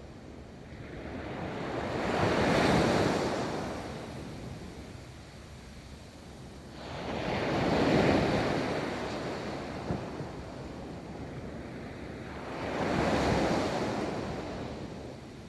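Ocean waves rolling onto a beach: three waves break and wash up in turn, each swelling and fading over a few seconds, with a little wind on the microphone.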